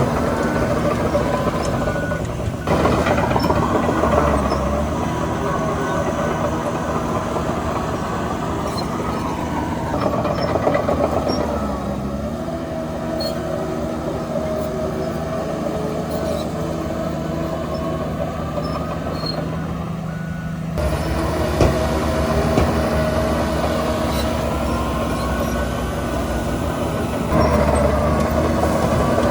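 Heavy diesel earthmoving machinery working: engines running under load, their pitch rising and falling as they rev up and ease off. The sound changes abruptly a few times.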